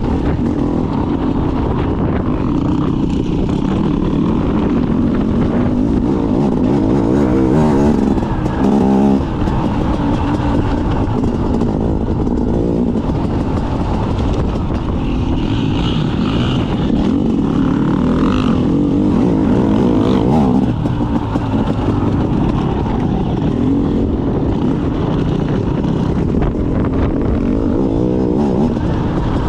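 Trail or dirt bike engine running hard, revving up and down as the bike is ridden round a motocross track, with a heavy rumble underneath.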